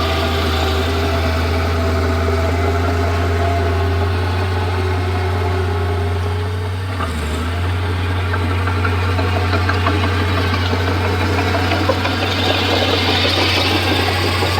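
Komatsu D31P bulldozer's diesel engine running steadily, with a brief drop in level about halfway through and some light clatter in the second half.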